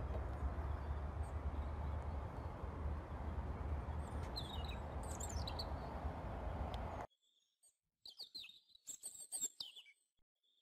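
Small birds chirping in short falling calls over a steady outdoor rumble and hiss. The rumble cuts off suddenly about seven seconds in, and a quick run of clear bird chirps follows.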